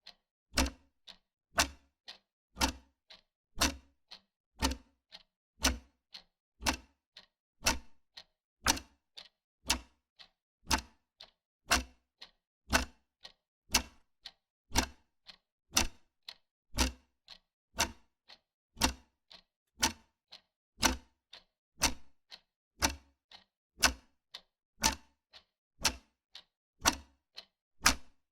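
Wall clock ticking steadily, about two ticks a second in an alternating tick-tock, every other tick louder.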